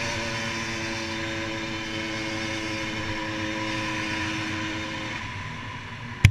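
HM Derapage 80cc motorcycle engine running at a steady, even pitch, held to modest revs because it is being run in, with wind noise on a helmet-mounted camera. The engine note drops away about five seconds in, and a sharp click comes right at the end.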